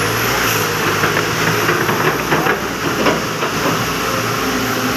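Steady rushing hiss with a low, even hum beneath it and scattered faint clicks.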